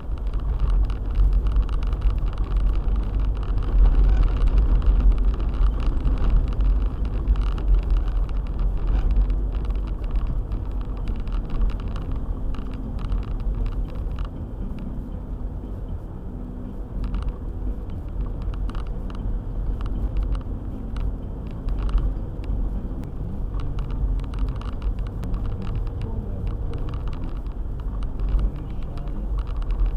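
Four-wheel-drive car driving: a steady low rumble of engine and road noise, with scattered short knocks and clicks.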